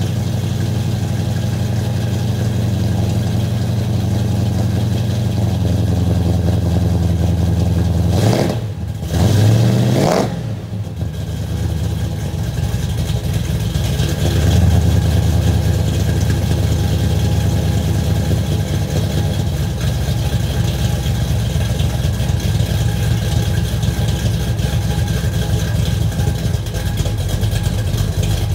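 Ford Galaxie's engine idling through its exhaust, warming up after a cold start, with a short rev about nine seconds in that climbs and drops back to idle, and a smaller blip of the throttle a few seconds later.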